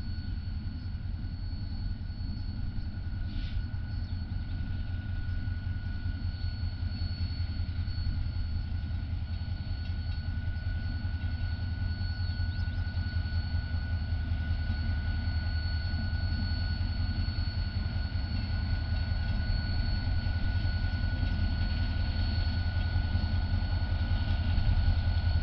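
Diesel locomotive engine running with a steady low rumble and a thin constant whine, slowly growing louder as it nears.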